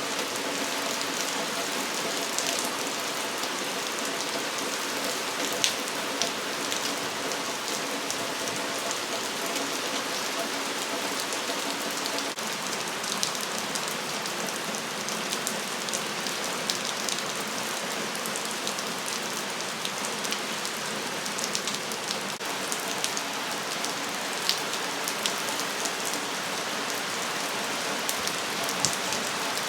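Sudden heavy rain falling steadily in an even hiss, with scattered sharper drops tapping on nearby surfaces.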